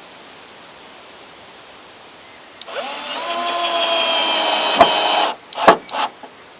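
Power drill driving a screw to fix a rain-gutter bracket: the motor winds up in pitch about three seconds in, runs steadily for about two and a half seconds and stops, followed by a few sharp knocks.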